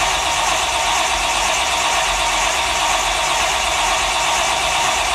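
Starter cranking the 1957 Chevy's 350 small-block V8 steadily for several seconds without it firing: a cold start with no choke, the two four-barrel carburetors just primed by pumping the throttle.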